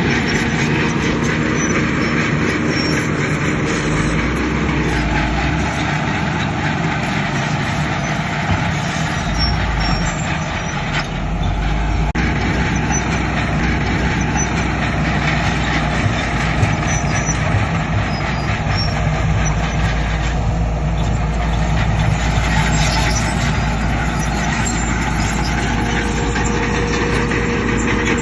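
Heavy diesel construction machinery, a bulldozer and dump trucks, running under work as a loud, continuous drone. The low engine note changes about four seconds in and again around eleven to twelve seconds.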